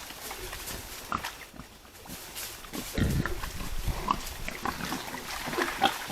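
Wild boars grunting, with short high squeaks among the grunts; the calls get louder and more frequent from about halfway through.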